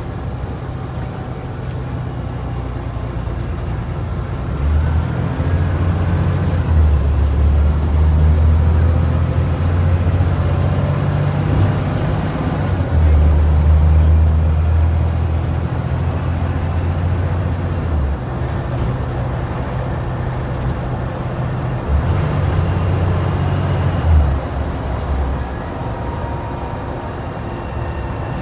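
Scania N94UD double-decker bus's DC09 diesel engine pulling hard under acceleration, with a high whistle rising above it, then easing off; a second, shorter spell of hard pulling follows later on.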